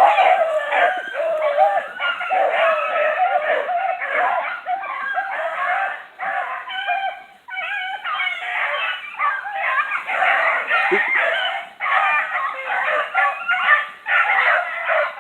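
A pack of hunting hounds baying on a trail, many voices overlapping in a near-continuous chorus of drawn-out bawls and barks, with a short lull about halfway through.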